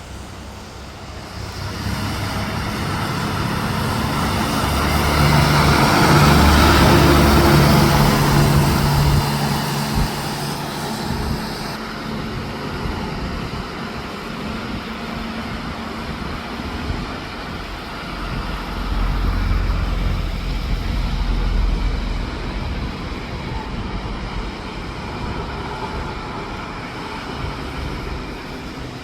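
Heavy truck passing on a highway: its engine and tyre noise grow louder to a peak about six to eight seconds in, then fade away. A second, quieter vehicle passes later.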